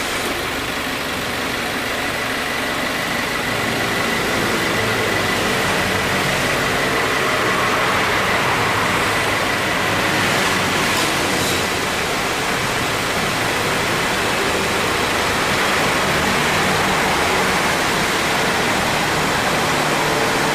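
2018 Subaru WRX's turbocharged flat-four idling with the air-conditioning compressor cycling, with a thin high whine through the first half and a slight rise in level a few seconds in. The compressor is mildly worn and makes an abnormal noise when it engages, cycling about three times a minute, which goes with weakening cooling.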